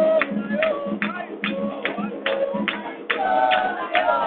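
Music: voices singing over a steady rhythm of sharp percussive strikes, about three a second.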